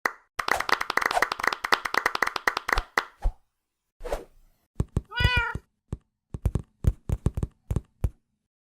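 Sound effects: a rapid run of clicks and knocks for about three seconds, a single meow-like cry that rises and falls about five seconds in, then a string of separate thumps.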